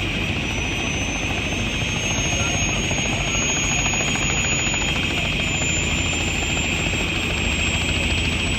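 Helicopter running close by: a steady low rotor beat under a turbine whine, with a thin high turbine tone that rises slowly in pitch.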